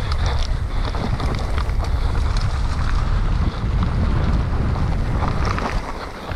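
Wind buffeting a camera microphone during a mountain bike ride, a dense low rumble with scattered clicks and rattles from the bike, easing off near the end.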